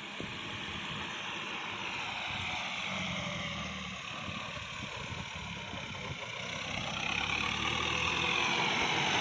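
Kubota L5018 tractor's four-cylinder diesel engine running steadily, growing louder over the last couple of seconds.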